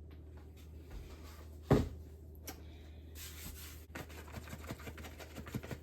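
Kitchen handling noises while working sourdough: one sharp knock about two seconds in, a click, a brief rustle, then a run of small ticks and taps, over a low steady hum.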